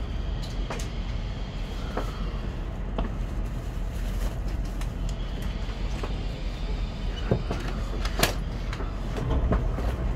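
Inside an N700S Shinkansen carriage as it slows to a stop at the platform: a steady low rumble with scattered clicks and knocks, a sharper one about eight seconds in.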